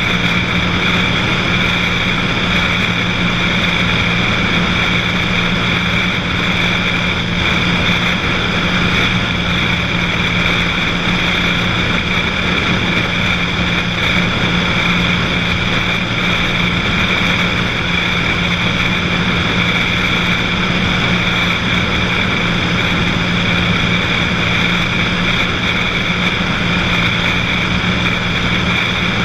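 Cessna 182 light aircraft's piston engine and propeller droning steadily in level flight, with no change in power.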